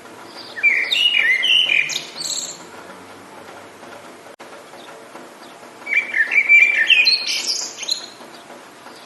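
A songbird singing two rapid warbling phrases of about two seconds each, some four seconds apart, over a steady hiss of rain.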